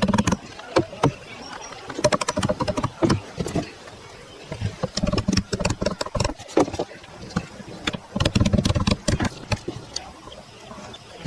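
A run of irregular sharp knocks and clicks, some close together and some spaced out, with low rumbling in between.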